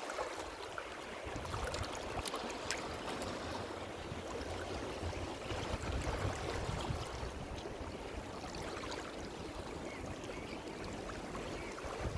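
Ocean waves washing ashore: a steady wash of surf that swells and eases slightly, with scattered faint crackles.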